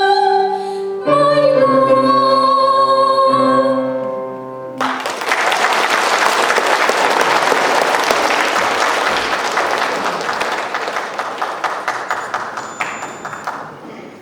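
A song ends on long held sung notes over the accompaniment, changing to a new chord about a second in and cutting off just under five seconds in. Audience applause breaks out at once and slowly dies away near the end.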